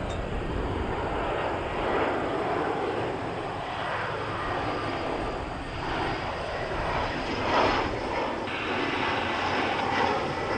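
Airliner jet engines, a steady rushing noise with no clear tone.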